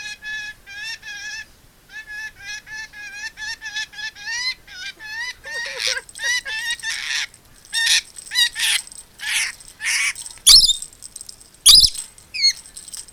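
Rainbow lorikeet calling: quick runs of short, pitched chirps, several a second, giving way after about five seconds to harsher screeches, the loudest of them sharp and sudden near the end.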